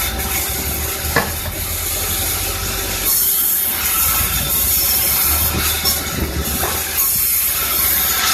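Sawmill saw running and cutting through timber: a steady low machine drone with a high rasping hiss that swells and fades as the blade works the wood, and a sharp knock about a second in.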